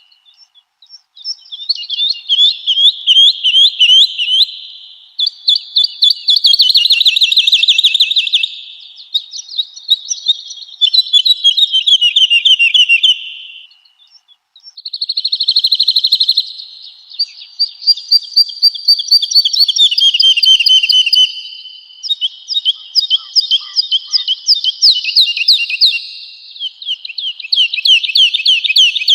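Woodlark singing: a series of phrases, each a fast run of repeated clear notes lasting a few seconds, with short pauses between phrases.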